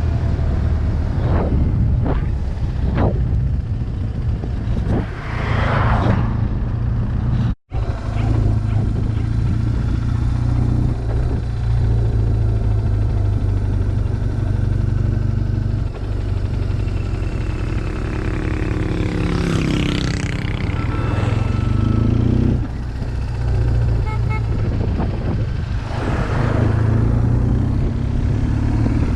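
BMW R1200GS boxer-twin engine running steadily at road speed, heard from the bike, with a few brief whooshing swells. The sound cuts out for an instant just before the 8-second mark.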